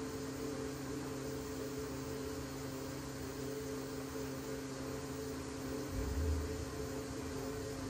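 Powder-coating equipment running: a steady mechanical hum with an even airy hiss, and a brief low thump about six seconds in.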